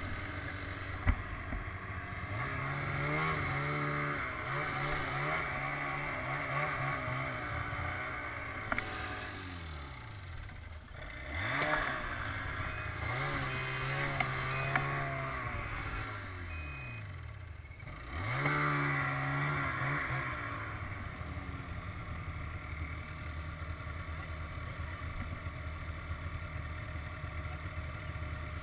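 Ski-Doo snowmobile engine accelerating in three spells, its pitch climbing and falling between them, then running steadily at lower revs for the last several seconds.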